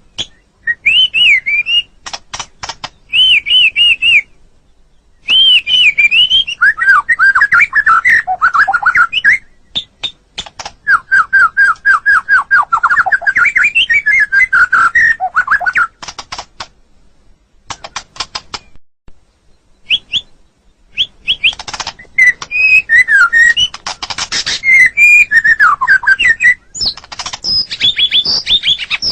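White-rumped shama (murai batu) singing loud phrases of clear whistles and fast runs of repeated notes, broken by short pauses, with a longer lull of a few seconds near the middle.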